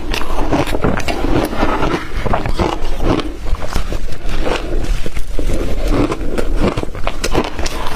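Close-miked chewing of blender-crushed ice: many quick, sharp crunches one after another, with lower gulping swallows in between.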